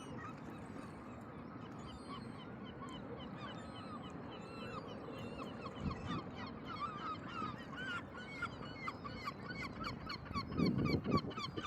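A flock of birds calling: many short, overlapping calls that grow denser about halfway through, over a steady low rush, with a brief louder low rumble near the end.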